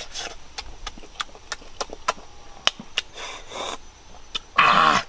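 Close-up eating sounds: irregular sharp clicks and smacks of chewing, about one or two a second, with a breath. Near the end comes a loud voiced 'aah'.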